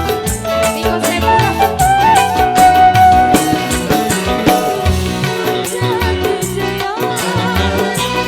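Indonesian dangdut-style band music: a wavering, pitch-bending melodic lead held over steady drums and bass.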